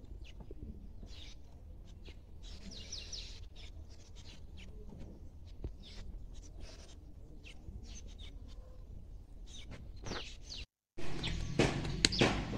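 Small birds chirping in short, repeated calls over a low steady rumble. The sound cuts out briefly about eleven seconds in and comes back louder.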